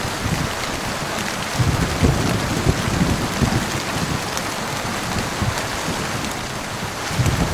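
Steady heavy rain hissing on a surface, with low rumbles of thunder swelling briefly a couple of times and again near the end.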